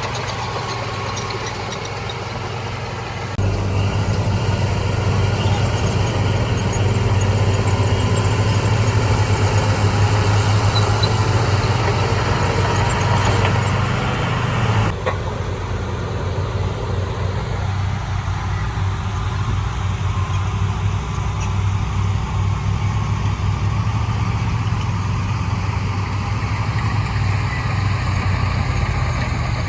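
Heavy earthmoving machinery's diesel engine running with a steady low drone. It gets louder a few seconds in and changes abruptly about halfway through.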